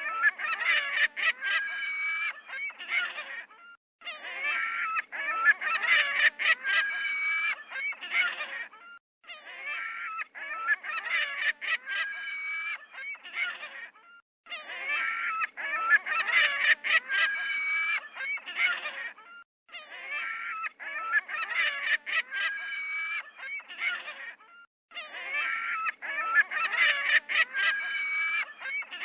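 Geese honking loudly and repeatedly in a flock, in bouts of a few seconds, each broken off by a short silence.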